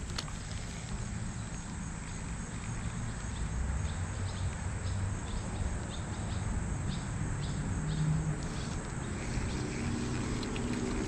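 Outdoor creek-side ambience: a steady high insect drone over a low rumble. Faint regular ticking comes through in the middle, and the rumble grows near the end.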